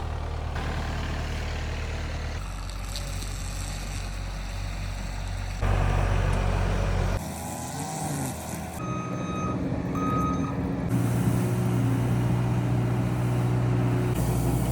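Heavy machinery engines running steadily and changing abruptly between takes. A backup alarm beeps intermittently in the later part.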